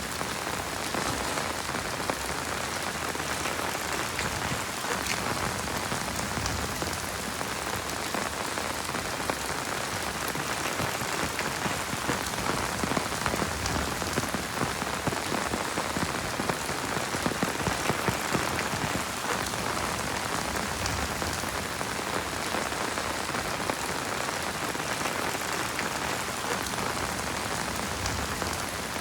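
Heavy rain falling steadily, a dense hiss speckled with sharper individual drop hits, growing a little louder midway.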